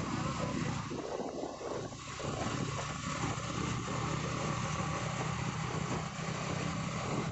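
Yamaha motorcycle engine running steadily while riding, with wind and road noise.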